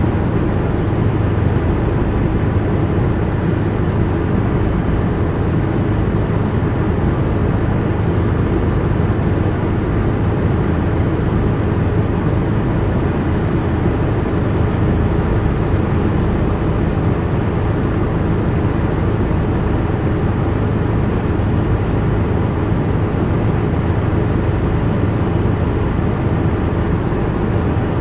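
Helicopter cabin interior: the engine and rotor drone, steady and unchanging, heaviest in the low end.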